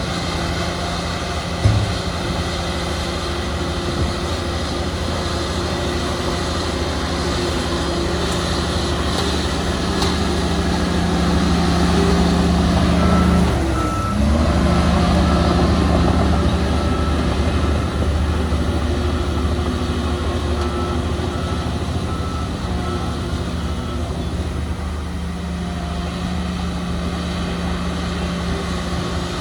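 Heavy diesel construction machinery running steadily; the engine note dips briefly and picks up again about halfway through. A reversing alarm beeps repeatedly for about ten seconds in the middle.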